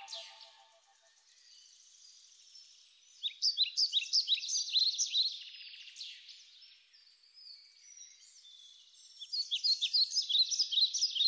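Birds chirping, with rapid high twitters and chirps in two busy bursts, one a few seconds in and another near the end, and fainter twittering between them.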